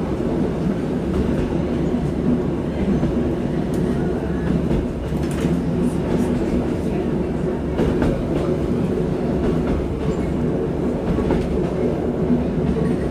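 Diesel passenger train running along the line, heard from inside the carriage: a steady engine drone with the rumble of the wheels and occasional clicks from the track.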